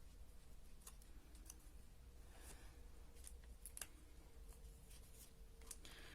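Near silence with a few faint clicks and light rustles of paper being handled and pressed down while gluing.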